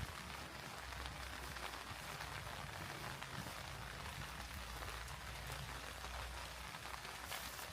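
Steady rain falling: an even hiss with many small ticks of single drops, over a low steady rumble.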